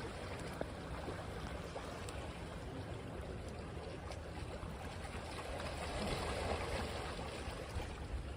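Ocean waves washing on a beach: a steady hiss of water, with a wave's wash swelling up about six seconds in and easing off again.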